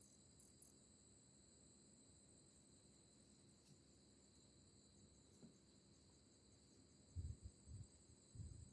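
Faint, steady high-pitched chirring of insects. A few dull low thumps come in near the end.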